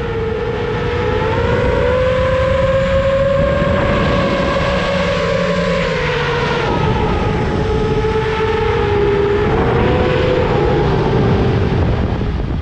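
FPV quadcopter's brushless motors and propellers whining, the pitch drifting up and down with throttle, over a rush of wind noise.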